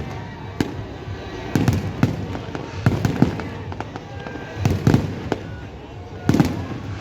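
Aerial fireworks bursting in a rapid series, a sharp bang every second or so, some in quick pairs, over a constant background rumble.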